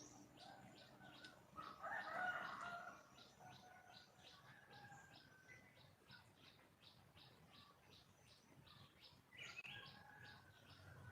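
Faint calls of a wild junglefowl hen calling for a male, the loudest cluster about two seconds in and a short rising call near the end. Behind them runs an even, high chirping about three or four times a second.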